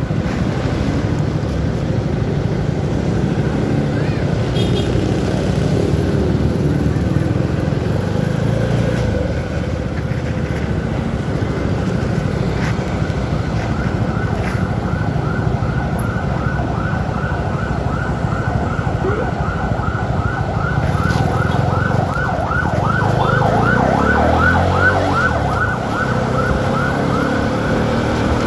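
Motorcycle riding along, probably a CFMoto 300SR single-cylinder, its engine and wind noise steady, with the engine pitch climbing as it revs late on. From about halfway a siren yelps in quick sweeps, about three a second, stopping near the end.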